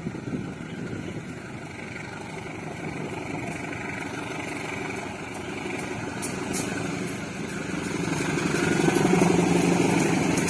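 Passenger train approaching: a steady engine hum and running noise that grows louder over the last few seconds, with scattered sharp clicks from about halfway in.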